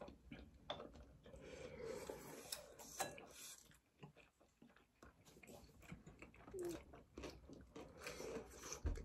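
Faint chewing and wet mouth clicks of people eating tteokbokki rice cakes, in short scattered bursts.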